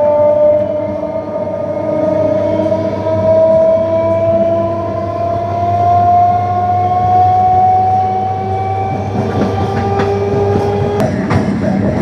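MEMU electric train running, its traction motor whine climbing slowly and steadily in pitch as the train gains speed, over a low hum and rail noise. The whine stops about eleven seconds in, leaving wheel clatter and clicks.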